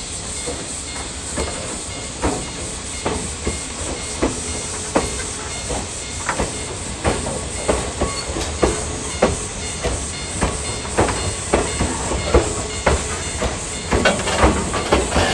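Freight train running on jointed track: steady rumble and hiss with rhythmic wheel clacks over the rail joints, the clacks coming quicker near the end as the train gains speed.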